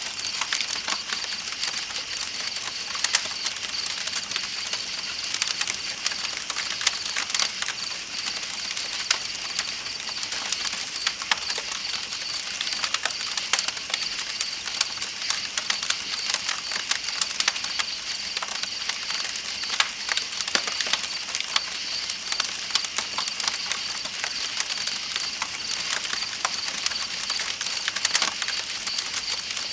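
Campfire crackling with frequent sharp irregular pops, over a steady hiss of flowing river water and a continuous high-pitched drone of night insects.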